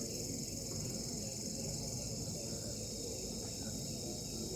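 Crickets chirping in a steady, high-pitched chorus, with a low background rumble underneath.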